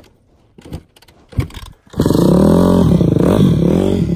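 A few faint knocks, then about halfway in an off-road motor vehicle's engine comes in loud and runs, revving up and down.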